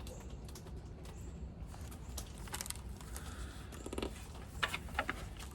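Quiet room tone with a steady low hum, broken by a few faint clicks and rustles in the second half.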